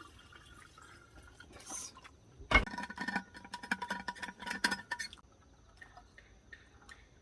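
Tableware being handled: a sharp knock about two and a half seconds in, then a couple of seconds of repeated ringing clinks.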